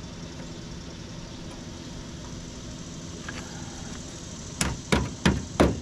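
Four quick hammer blows on car body sheet metal near the end, about three a second, over a steady low machine hum.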